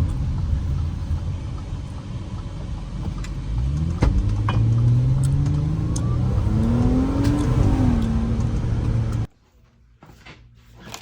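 Car engine revved: it runs steadily for a few seconds, then its pitch climbs for about four seconds and drops back. The sound cuts off abruptly near the end.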